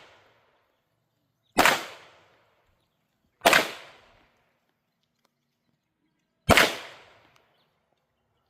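Three single shots from a Canik Rival pistol, slow aimed fire about two and three seconds apart, each shot followed by a short trailing echo.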